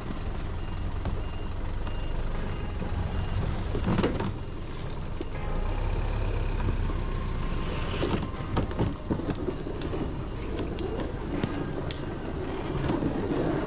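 A vehicle engine running with a steady low rumble, with scattered knocks and clatter. A faint beep repeats about twice a second for the first few seconds.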